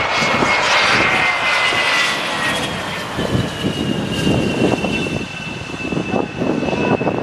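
Aircraft engine of a plane flying past, a loud rush with a high whine that slowly falls in pitch.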